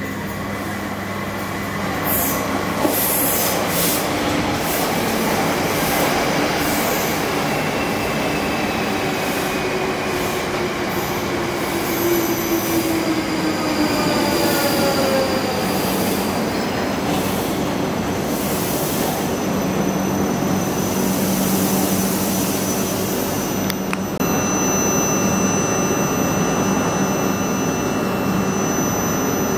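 A passenger train running past along the platform, its wheels clattering over the rail joints, with a whine that falls in pitch as it goes by. Near the end a steady electric hum and high whine take over.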